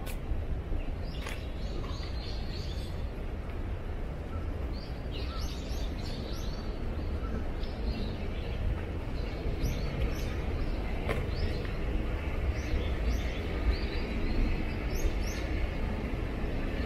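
Small birds chirping repeatedly in short high calls over a steady low rumble, with a few sharp clicks.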